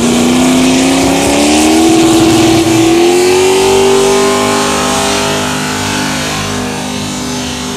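Single-turbo Chevrolet Lumina's engine under hard acceleration, its pitch climbing over the first four seconds or so and then holding steady.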